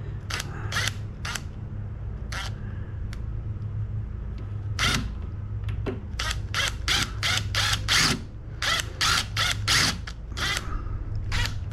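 A series of sharp clicks, a few spaced out at first and then a quick run of about three a second from about six seconds in, over a steady low hum.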